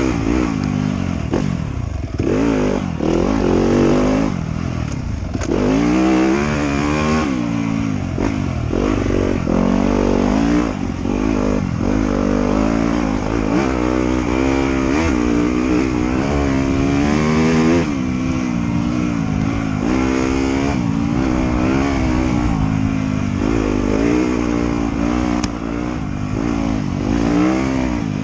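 Trail motorcycle engine working hard, its pitch rising and falling over and over as the throttle is opened and closed and gears change.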